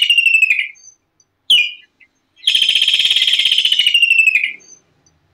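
Kingfisher calling: a long, shrill, rapid trill that drops in pitch at its end, a short sharp note, then a second long trill and another short note.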